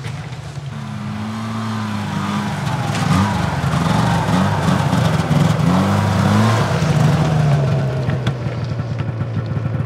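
An engine running, its pitch wavering up and down.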